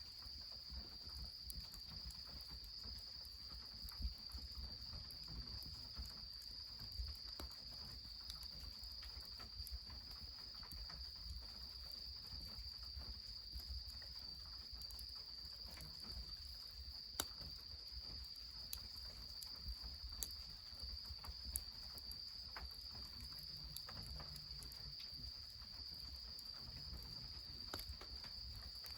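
Insects trilling steadily on one high pitch, with scattered sharp pops and crackles from a wood fire and a low rumble underneath.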